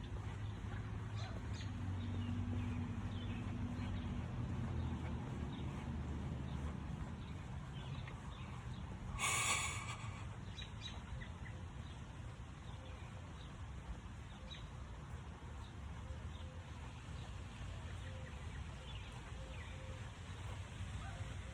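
Birds chirping in short repeated calls, over a low rumble that fades after the first half, with one short louder sound about nine seconds in.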